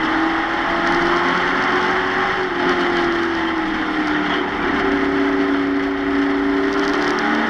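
A stock-car racing truck's engine at high revs, heard from inside the cab. Its pitch sags gradually over the first few seconds and steps back up about five seconds in.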